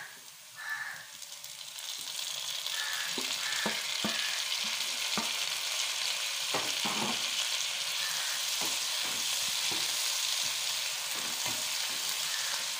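Chopped tomatoes sizzling in hot oil on top of frying onions, the sizzle growing louder and steady about two seconds in. A spatula scrapes and knocks against the pan as the mix is stirred.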